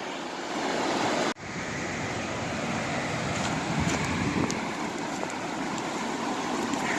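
Steady rushing of water pouring through a reservoir overflow spillway below a bridge, with a brief dropout in the sound about a second and a half in.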